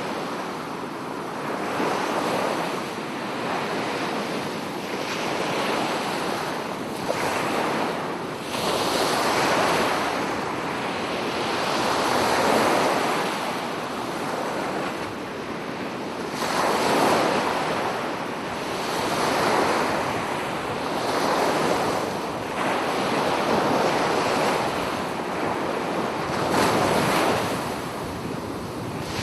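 Sea waves breaking and washing on the shore, swelling and easing every few seconds, with some wind on the microphone.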